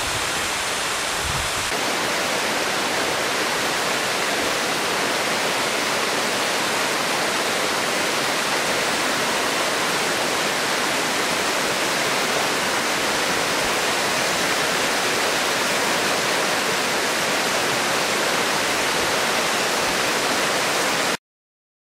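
Waterfall (Higashi-Shiiya Falls) making a steady, loud rushing roar of falling water. The deep part of the sound thins about two seconds in, and it cuts off abruptly just before the end.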